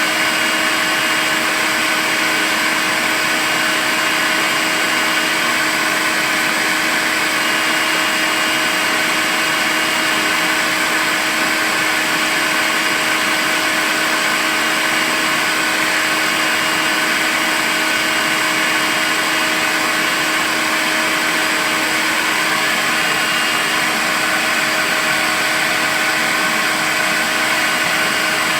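Makita cordless vacuum cleaner running steadily at one speed: an even rushing hiss over a steady motor hum, with a faint high whine that comes and goes.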